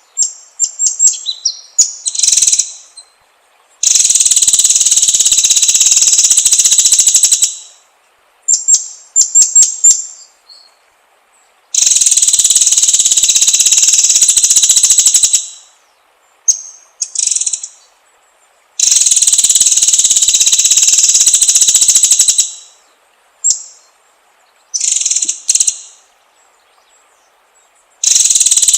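White-rumped shama (murai batu) singing. Clusters of short, high whistled notes alternate with long, loud rapid trills lasting three to four seconds each, three of them, with a fourth starting near the end.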